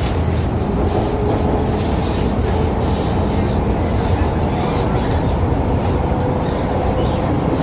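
First-generation MTR M-Train (1979 Metro-Cammell stock) running, heard from inside the carriage: a steady loud rumble of wheels and running gear with a faint hum under it.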